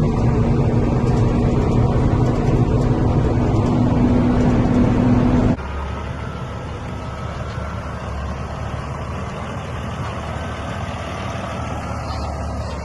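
Isuzu FVM 1400 truck's diesel engine running under way with a steady held tone; about five and a half seconds in the note drops suddenly to a quieter, even run.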